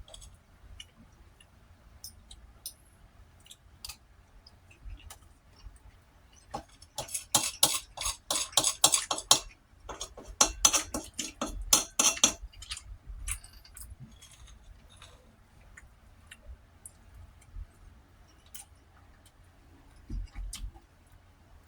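Eating sounds close to the microphone: scattered light clicks and clinks of a utensil on a plate, with two spells of dense rapid clicking a few seconds long near the middle.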